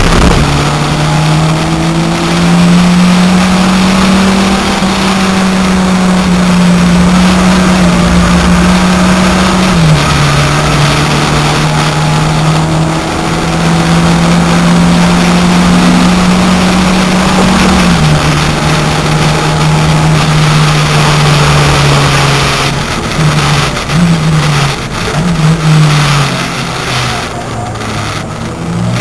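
VW Corrado's 1.8-litre turbocharged four-cylinder engine under hard acceleration, heard from inside the cabin. It holds high revs in long steady stretches, with upshifts about 10 and 18 seconds in. In the last few seconds the revs drop and jump several times in quick succession.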